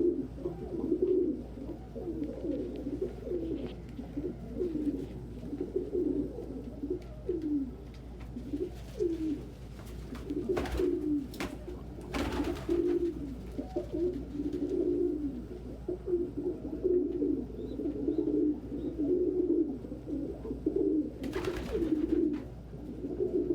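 Domestic pigeons cooing continuously, many low rolling coos overlapping, as cocks contest nest spots. A few brief whooshing noises break in near the middle and again about three-quarters of the way through.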